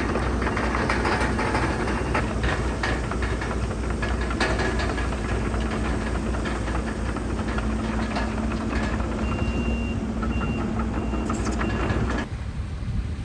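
Heavy earthmoving machinery at work: a diesel engine running steadily under a continual clatter of knocks, with a reversing alarm beeping in short repeated tones from about nine seconds in. The machine noise drops away abruptly near the end.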